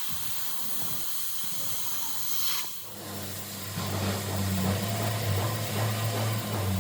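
Metal-fabrication equipment: a steady hiss for a little under three seconds, then after an abrupt change a steady low hum with crackling.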